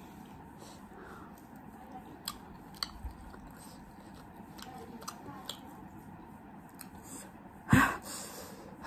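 Close-miked eating: quiet chewing with scattered sharp mouth clicks, and one loud knock near the end.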